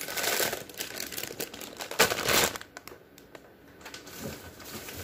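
Plastic food packaging crinkling and rustling as it is handled, with a louder crinkle about two seconds in, scattered light clicks, and quieter small ticks afterwards.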